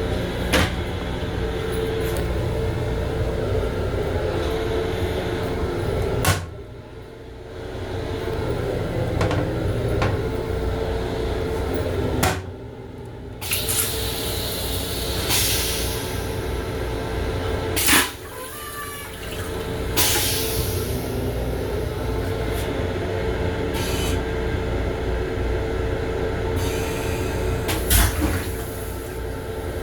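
Steady hum and running noise of a Long Island Rail Road M7 electric railcar heard from inside its small restroom, with a constant tone. Several sharp clicks or knocks are scattered through it, and the hum briefly drops away three times.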